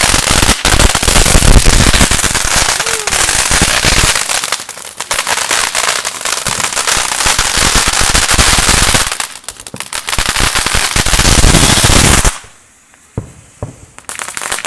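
Firecrackers going off in a rapid, dense crackle of pops, easing off briefly twice, then stopping suddenly about twelve seconds in, with a few scattered pops after.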